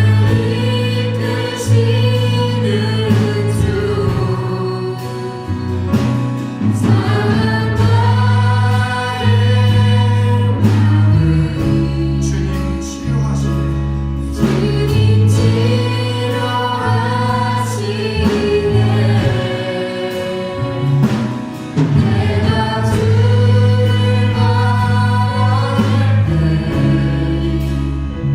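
Contemporary praise band with singers performing a worship song: voices singing a melody over sustained bass notes and a steady drum beat.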